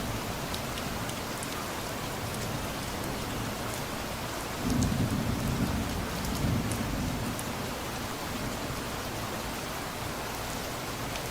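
Steady rain falling, with scattered small drips. A low rumble of distant thunder swells about halfway through and fades over a couple of seconds.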